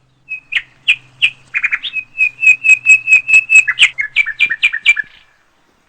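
A bird singing: a fast run of loud, high chirps, about five a second, lasting nearly five seconds.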